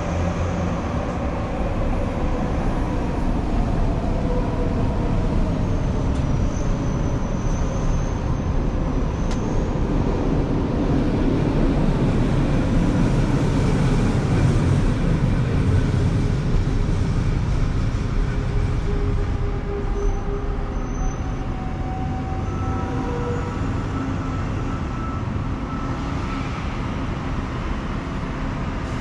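City street traffic noise: vehicles passing on a busy road, swelling to its loudest around the middle as something heavy goes by, then easing, with a few faint squealing tones.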